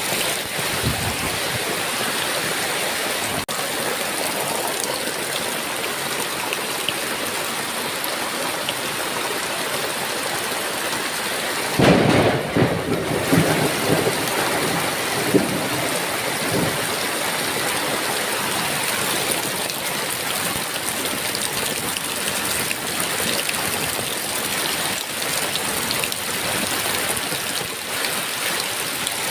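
Heavy rain falling steadily, with a clap of thunder rumbling for a few seconds about twelve seconds in.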